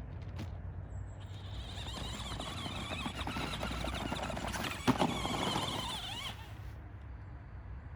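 Electric motor of an RC monster truck whining as it drives, its pitch wavering up and down with the throttle for about five seconds, with one sharp knock about five seconds in.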